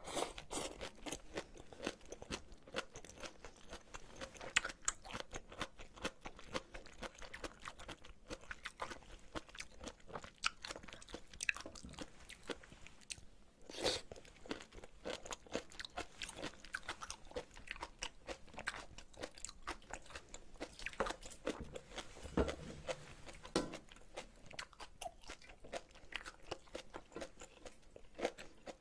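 Close-miked chewing and crunching of cabbage kimchi and ramen noodles: a steady run of irregular wet mouth clicks and crisp crunches.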